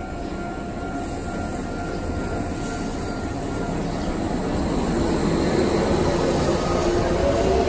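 Kintetsu electric train running on the Nagoya Line, its rumble growing steadily louder, with a whine coming in near the end.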